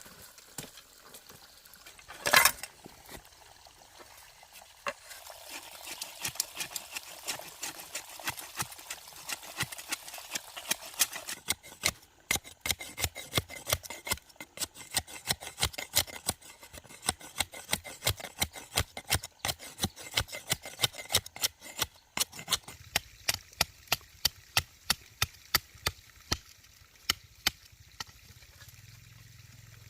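A single loud knock about two seconds in, then a rustling noise with scattered clicks. From about twelve seconds on comes a long run of sharp knocks or strikes, three or four a second, slowing to about two a second and growing more separate near the end.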